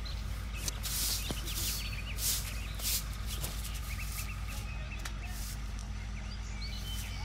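Small birds chirping over and over, with a steady low hum of street background underneath. A few short rustling noises come about one to three seconds in.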